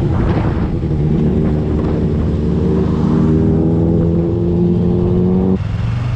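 Motorcycle engine pulling away and accelerating, its pitch rising steadily for about five seconds, then dropping abruptly near the end.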